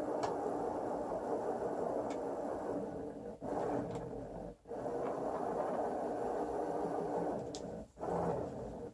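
Excalibur Mirage robotic chess computer's motor-driven mechanism moving its electromagnetic head under the board: a steady whirring hum that stops briefly three times, with a few light clicks.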